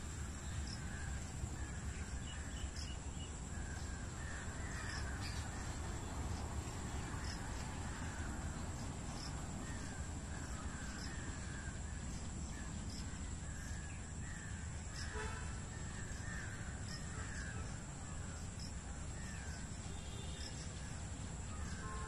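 Birds calling over and over in short, harsh notes, with a steady high-pitched whine and a low hum underneath.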